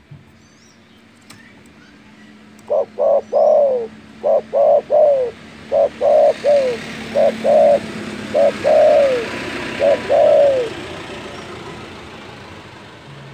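Spotted dove (derkuku) cooing loudly. It gives a series of phrases, each made of one or two short coos and ending in a longer coo that falls in pitch, repeated about six times over some eight seconds.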